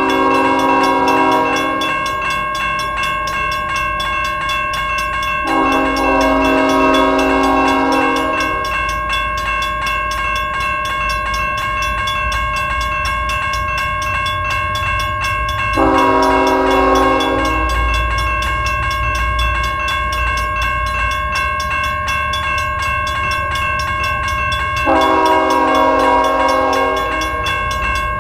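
A BNSF ES44AC locomotive's air horn sounding over the rumble of the passing freight train: one blast ends about two seconds in, then a long blast, a short one and a long one follow several seconds apart. A steady high whine runs under it all.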